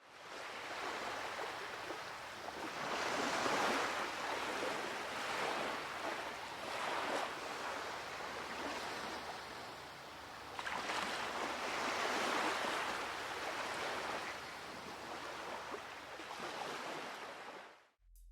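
Sea waves washing in, a steady rush that swells and eases in repeated surges and cuts off suddenly near the end.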